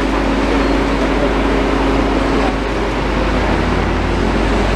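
Demolition excavators' diesel engines running steadily, with a constant low rumble and a droning tone that fades about halfway through.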